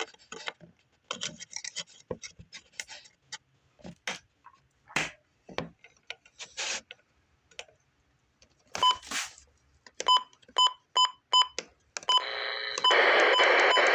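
Weather radio receiver being handled and retuned: scattered clicks and rubbing of its buttons, then about six short beeps from button presses. Near the end comes loud, steady static as it changes to channel 1.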